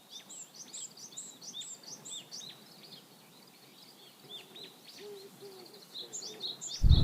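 Songbird chirping, a repeated high dipping note about twice a second, with a second bird's low hooting notes joining about four seconds in. A sudden loud thump near the end.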